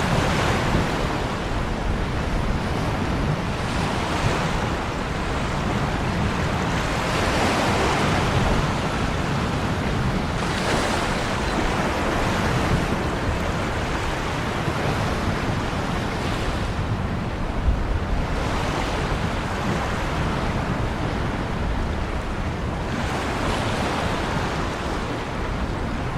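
Ocean waves breaking and washing on the shore in a continuous rush, swelling and easing every few seconds.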